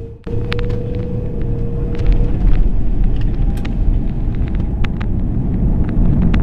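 Airbus A330 heard from the passenger cabin during the takeoff roll: a loud, steady rumble of engines and undercarriage with repeated rattling clicks from cabin fittings, getting louder about two seconds in.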